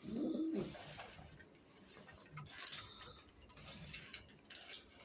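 Scattered sharp clicks and rustles from a feisty, defensive pigeon squab being handled, typical of a squab snapping its beak, with a short low grunt-like sound at the start.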